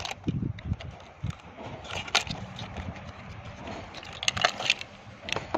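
Irregular handling noise: a few low knocks early on, then scattered sharp clicks and taps, the loudest about two seconds in and a cluster a little past four seconds.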